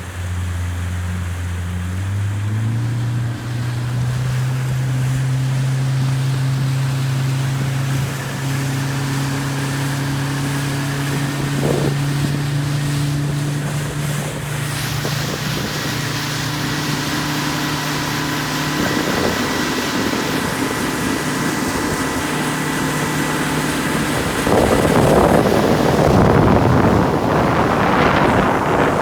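Motorboat engine running under way. Its pitch rises about two to three seconds in as the boat speeds up, then holds steady. Near the end the engine tone gives way to a louder rush of wind and water.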